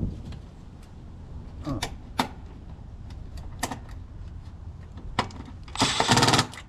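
Scattered sharp clicks and taps from parts being handled during condenser electrical work, then a louder burst of rustling handling noise about six seconds in.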